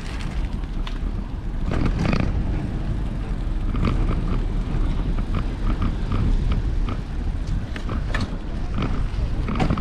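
Wind buffeting the microphone of a moving bicycle, a steady low rumble, with scattered light clicks and rattles from the bike.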